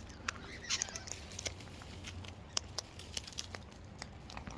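Cockatoos scratching, tapping and rustling close to the microphone as they forage on and around a person: scattered light clicks of beaks and claws with a brief rustle about a second in.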